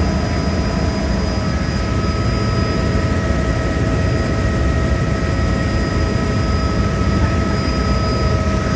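Helicopter in flight: a steady, loud engine and rotor rumble with constant high-pitched whine tones over it.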